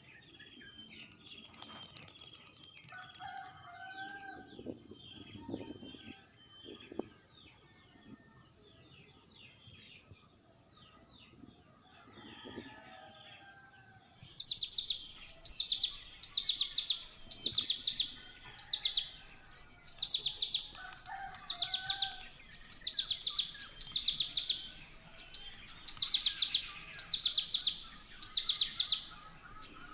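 Small bird chirping loudly and repeatedly in quick pairs of high chirps, about one pair a second, starting about halfway through. Before that there is a steady high insect drone and a few faint rooster crows.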